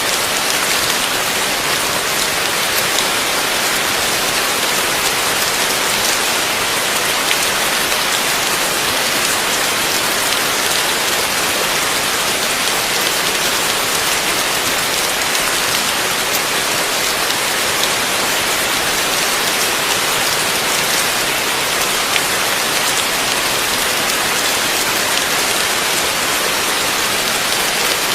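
Heavy rain falling steadily, a dense even hiss of drops with fine spatters throughout.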